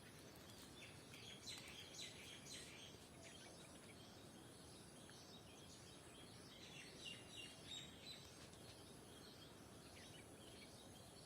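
Faint bird chirps over a quiet background hiss, in a cluster of short high calls about one to three seconds in and another around seven to eight seconds in.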